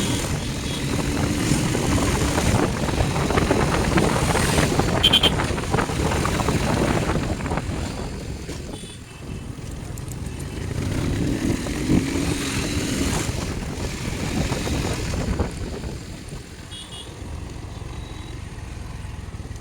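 A motorcycle engine running while riding, mixed with road and wind noise. The engine swells and eases as the speed changes, and a few short high beeps come and go.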